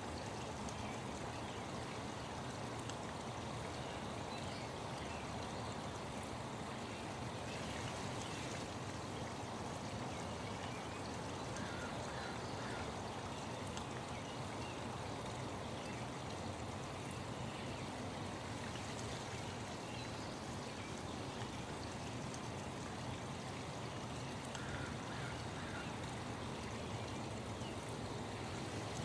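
Steady running water of a stream, an even rushing flow, with a few faint short bird chirps about halfway through and again near the end.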